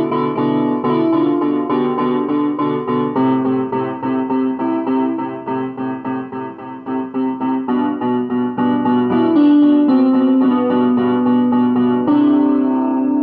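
Solo piano playing a slow melody over sustained chords, with a stretch of quicker, softer notes about halfway through, recorded through a phone's microphone.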